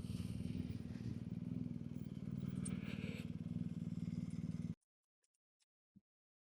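BMW adventure motorcycle engine running steadily at low speed. It stops abruptly about three-quarters of the way through, leaving near silence with a couple of faint ticks.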